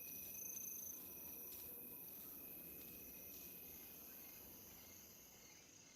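Faint bush ambience of insects chirring: a steady high-pitched drone that slowly fades away.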